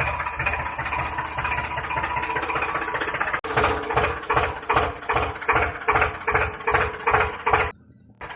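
Engine running with an even chug of about three beats a second. The sound changes abruptly about three and a half seconds in, from a denser, steadier run to stronger beats, and drops out briefly near the end.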